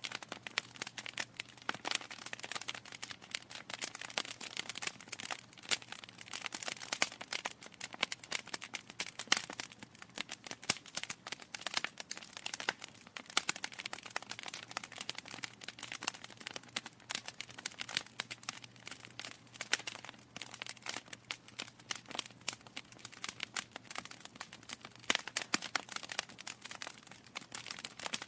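Wood fire crackling steadily, with dense irregular pops and snaps over a soft hiss.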